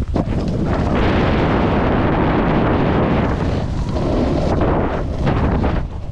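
Loud, steady rushing rumble of a snowboard run: wind buffeting the rider's POV camera microphone and the board sliding over snow, easing off shortly before the end.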